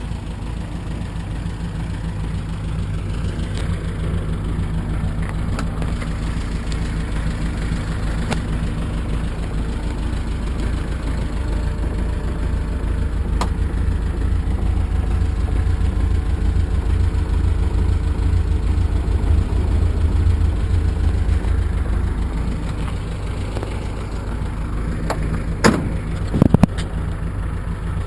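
BMW 2002 M10 four-cylinder engine, swapped into a Triumph Spitfire, idling steadily. Its note swells a little louder through the middle and eases back, and a few sharp clicks come near the end.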